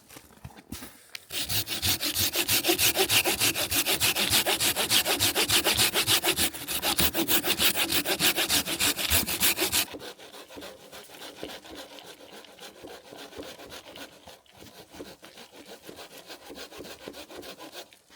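Hand saw cutting with quick, even back-and-forth strokes. The strokes are loud for about eight seconds, then carry on softer and lighter near the end.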